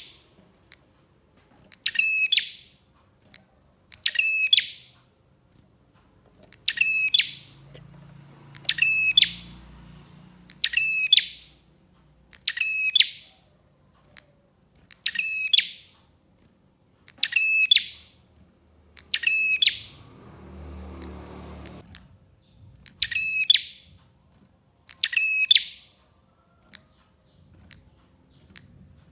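Prinia (prenjak) song: short, loud, buzzy chattering phrases of rapid repeated notes, repeated about every two seconds, about eleven times.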